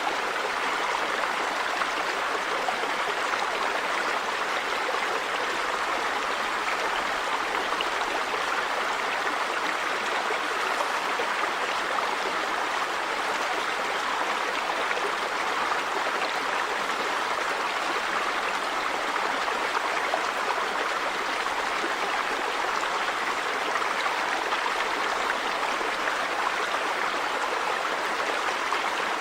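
River water running over rocks, a steady rushing with some gurgling.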